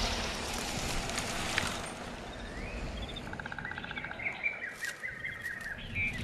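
Forest ambience with birds chirping over a low steady background: about two and a half seconds in, a rising chirp, then a quick trill and a run of short chirps.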